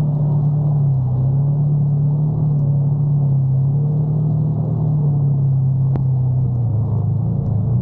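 Motorcycle engine running steadily with a low, muffled drone, its pitch drifting slightly up and down as the engine speed varies.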